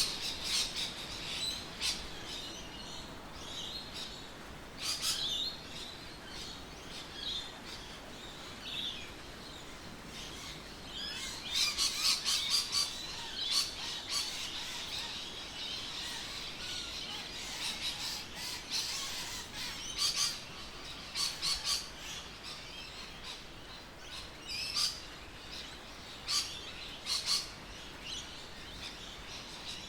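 Birds chirping and calling: short, high notes come and go throughout, with a quick run of calls about twelve seconds in, over a faint steady background hiss.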